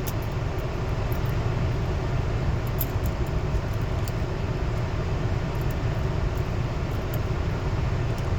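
Automatic car wash running over the car, heard from inside the cabin: a steady low rumble and hiss of the machinery and water spray, with scattered light ticks.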